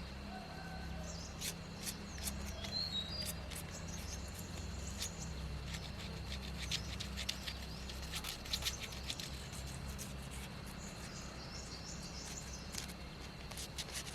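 Scattered light clicks and taps, with birds chirping and a low hum underneath that weakens about five seconds in.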